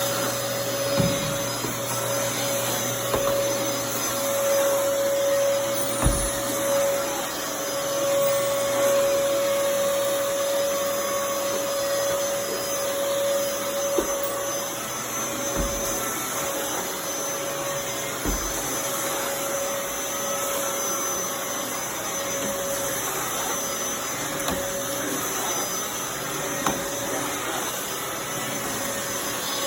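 Dyson DC23 Animal canister vacuum running steadily with a constant whine over its rushing airflow, with a few short low thumps scattered through.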